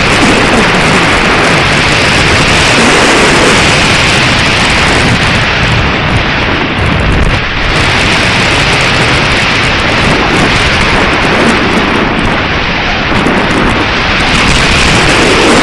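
Strong wind buffeting the microphone: a loud, steady rush of wind noise with no let-up, dipping only slightly about seven seconds in.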